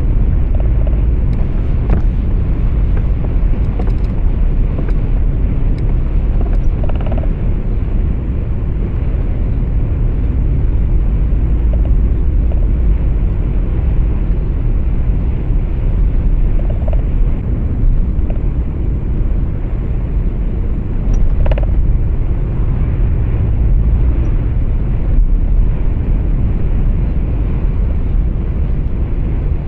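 Road and engine noise inside a moving truck cab: a steady, deep rumble with a few faint, brief sounds on top.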